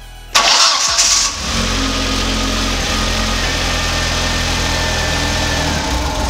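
Audi A4's turbocharged 1.8T four-cylinder engine cranking and catching about a third of a second in, flaring briefly, then idling steadily, with a slight change in the idle near the end. The engine has a fault that makes it hunt for idle and stall, and a borrowed MAF sensor does not cure it.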